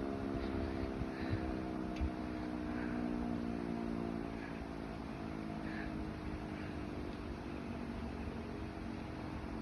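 Sterling Model M single-head, 16-port electromechanical siren winding down, its chord of tones slowly falling in pitch and fading away.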